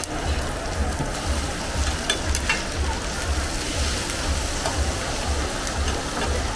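Hot oil sizzling steadily as crispy hoy tod (egg-batter omelets with mussels and bean sprouts) shallow-fry on a large flat pan, with a few clinks and scrapes of a metal spatula and ladle against the pan.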